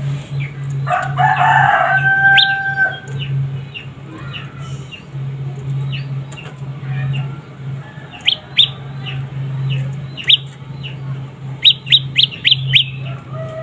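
Young prenjak lumut birds calling with many short, sharply falling chirps, coming in a quick run of several near the end. A rooster crows about a second in, and a steady low hum runs underneath.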